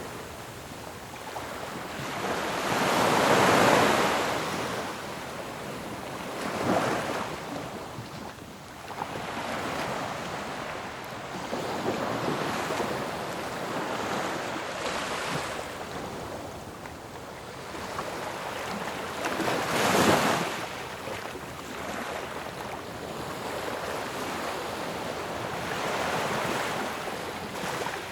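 Ocean waves crashing on a shore: a continuous wash of surf that swells into louder breaking waves every few seconds, the biggest about three seconds in and again near twenty seconds.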